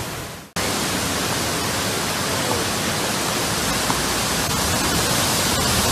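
Floodwater rushing through a street as a steady, dense wash of water noise. It fades out and breaks off briefly, then comes back abruptly about half a second in.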